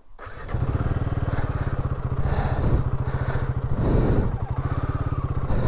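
Royal Enfield Himalayan 450's single-cylinder engine running at low revs, with evenly spaced firing pulses. It comes in about half a second in.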